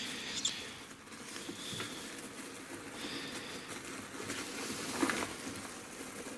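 Rustling and small clicks of someone rummaging through a bag, with a louder knock about five seconds in.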